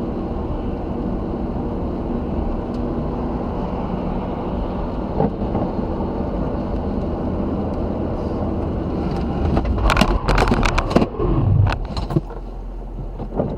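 Steady road and engine noise of a car driving, as picked up by a dashcam, then a burst of loud, sharp knocks and bangs about ten seconds in, lasting around two seconds.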